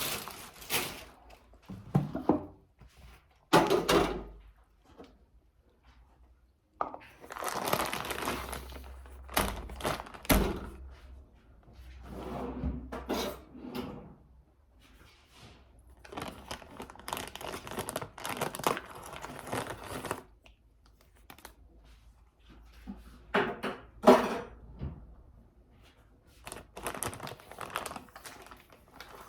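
Irregular thuds and knocks with some crinkling, as of objects being handled.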